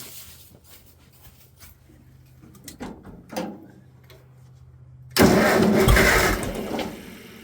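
A couple of light knocks, then the Farmall 400's gasoline four-cylinder engine being cranked over by its starter for about a second and a half, loud, before it dies away. This is a start attempt after a new spark plug went into the third cylinder, which was getting no spark, on an engine that will run only on choke.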